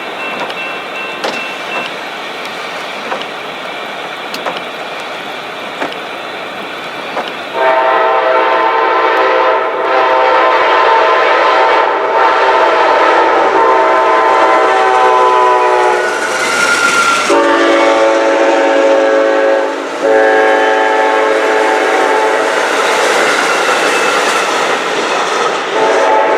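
A passing train's locomotive horn sounding a chord of several notes in long, loud blasts, after several seconds of steady rushing noise. Its pitch drops partway through.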